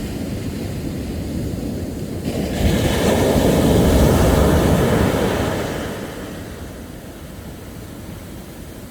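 Sea waves on a beach: a wave breaks and rushes in about two seconds in, loudest around four seconds, then the wash fades back to a steady, softer surf.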